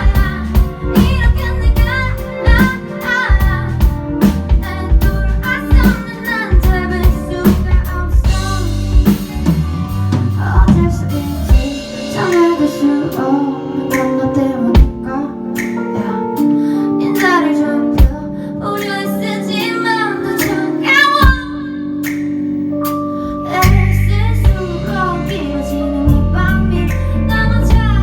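A woman singing a song with band accompaniment of drums, bass and guitar. The drums and bass drop back around the middle and come in heavily again near the end.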